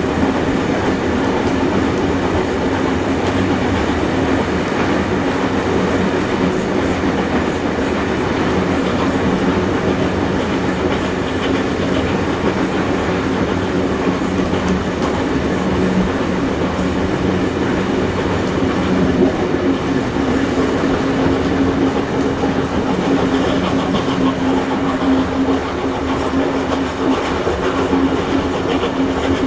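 A steam-hauled heritage passenger train running at speed, heard from aboard the carriages behind a pair of steam locomotives. Carriage wheels clatter over the rails over a steady, unbroken running noise with a low hum.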